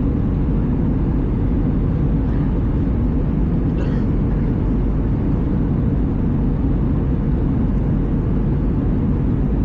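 Steady cabin rumble inside an Airbus A320: engine and airflow noise at an even level, deep and without change.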